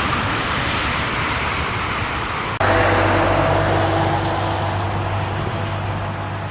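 Steady rushing jet engine noise from landing airliners, broken by an abrupt cut about two and a half seconds in, after which a steady low hum with faint whining tones continues.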